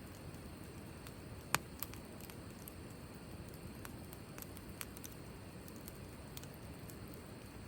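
Wood fire burning in a fire stand, crackling with scattered small pops and one sharp, louder pop about a second and a half in, over a steady low background rush.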